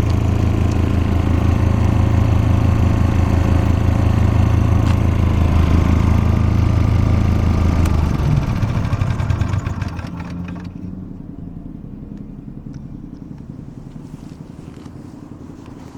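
Engine of a soundproofed engine-driven air compressor running steadily and loudly. About eight seconds in the sound changes, and over the next two seconds it drops to a much quieter level.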